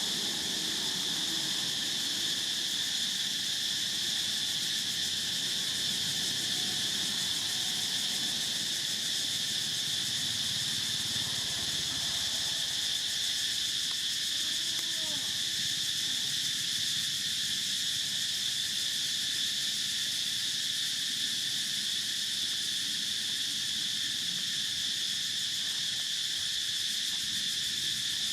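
A steady, unbroken high-pitched insect chorus of crickets or cicadas. A few faint short calls come about halfway through.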